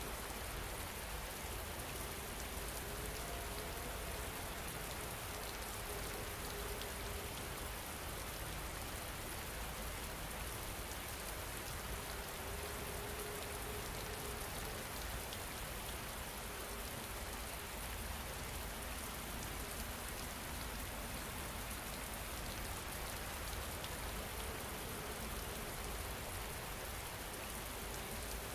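Steady rainfall, an even hiss of many drops with no letup. Faint held low tones drift in and out underneath.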